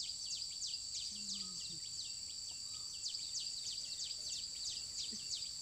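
Steady high-pitched chirping of field wildlife: quick downward-sweeping chirps, about four or five a second, over a continuous high drone. A faint voice is heard briefly about a second in.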